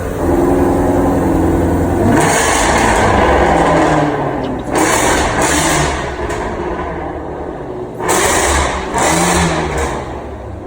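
Hennessey HPE850 Shelby GT350R's supercharged 5.2-litre flat-plane-crank V8 idling, then revved hard several times through its exhaust. The first rev is long, about two seconds in. Shorter blips follow, and two quick ones come near the end.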